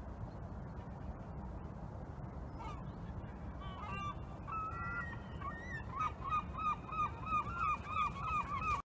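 A water bird honking: scattered calls at first, then a quick run of about four honks a second over the last few seconds, over a steady low rumble. The sound cuts off suddenly just before the end.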